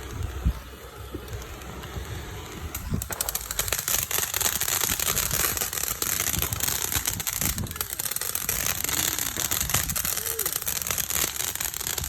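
Firework crackling: a dense, rapid stream of tiny pops and hiss that starts about three seconds in, runs for around nine seconds, and cuts off at the end. Before it there is a low rumble and a single thump.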